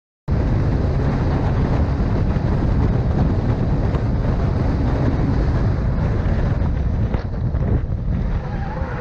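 Heavy wind rumble on the microphone over vehicle noise, cutting in abruptly after a brief silence.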